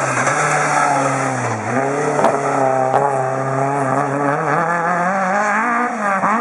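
Rally car engine at high revs, its pitch dipping about a second and a half in and then climbing steadily, with two sharp cracks a little past two and three seconds.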